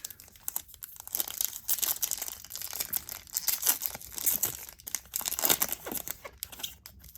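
A 2017 Topps Update baseball card pack being torn open by hand, its wrapper crinkling and crackling irregularly throughout.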